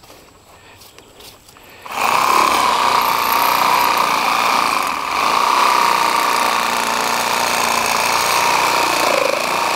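Electric power tool starting about two seconds in and running steadily at high speed with a steady whine.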